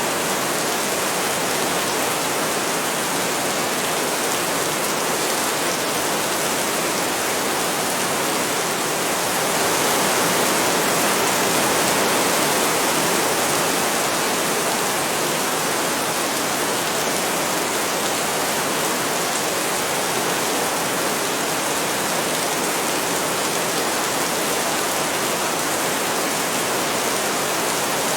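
Heavy rain falling steadily, a dense even hiss that swells slightly about a third of the way through.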